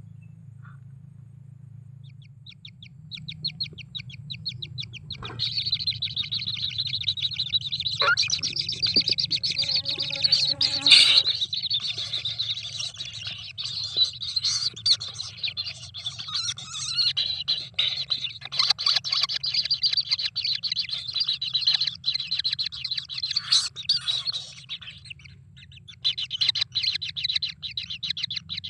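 Kingfisher chicks calling in a rapid, continuous chatter of high, fast-repeated notes that starts about three seconds in, typical of begging for food. The calls ease briefly near the end, then start again, over a steady low hum.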